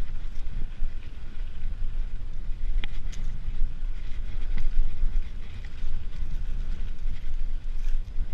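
Wind buffeting the microphone of a camera on a moving mountain bike: a loud, fluttering low rumble, with scattered small clicks and rattles from the bike on the rough track.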